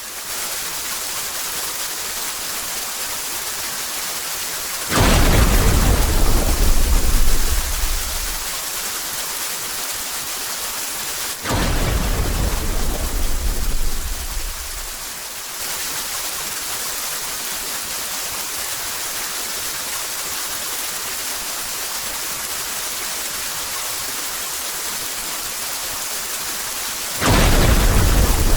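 Steady rain with three rolls of thunder, each starting suddenly and rumbling deep for three or four seconds: about five seconds in, near the middle, and near the end.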